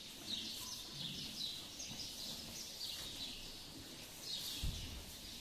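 Small birds chirping in short, repeated bursts of high chirps, with a brief low thump about four and a half seconds in.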